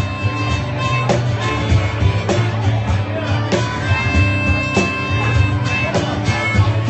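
Live rock band playing an instrumental passage between vocal lines: a strong beat about every 1.2 seconds over steady bass and guitar.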